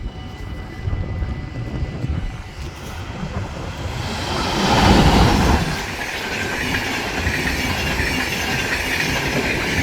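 Train led by NS class 186 electric locomotives approaching and passing. The rumble and wheel noise build from about four seconds in, are loudest around five seconds, and carry on steadily as the train rolls by.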